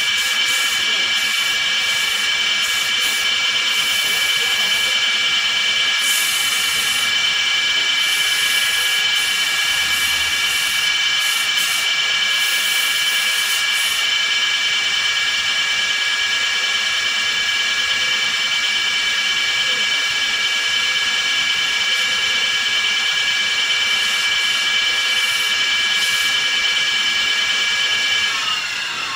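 A woodworking lathe running with a steady high whine and a rough hiss over it. Near the end the whine slides down in pitch and fades as the machine spins down.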